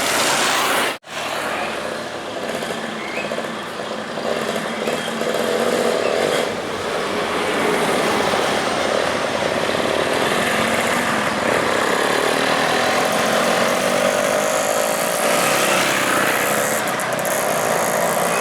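Road traffic with a heavy truck's engine running by. It breaks off for an instant about a second in. Near the end the engine note rises steadily as it accelerates.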